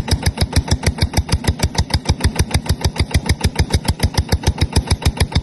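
Yanmar TF150 single-cylinder diesel engine running steadily, with an even chug of about eight firing beats a second.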